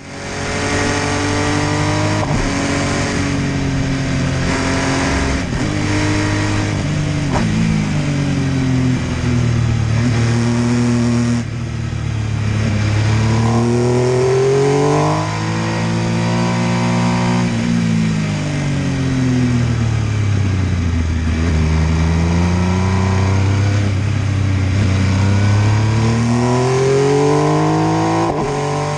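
MV Agusta F3 800's three-cylinder engine under way, the revs repeatedly climbing under throttle and falling back as it eases off. The revs and loudness drop suddenly about a third of the way through, then rise and fall in long sweeps several more times.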